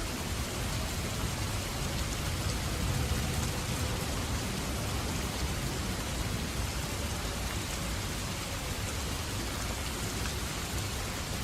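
Steady rain falling, an even hiss of drops with a low rumble underneath that swells slightly a few seconds in.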